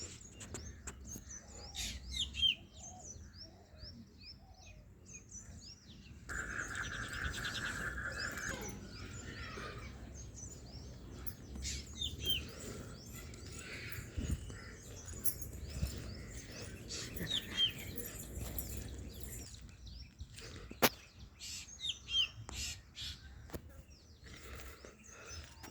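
Small birds chirping and twittering repeatedly, with a short buzzing trill about six seconds in and a single sharp click later on.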